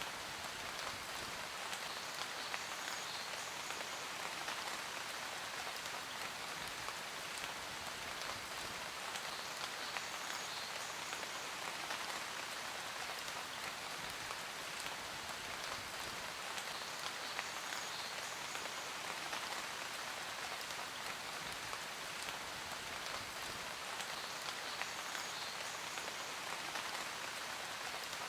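Steady rain falling on a surface: an even hiss dotted with the small ticks of single drops.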